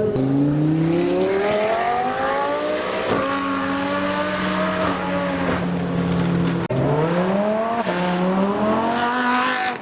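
A car engine accelerating hard, its pitch climbing as the revs rise. It drops sharply at a gear change about three seconds in and again near seven seconds, then climbs once more.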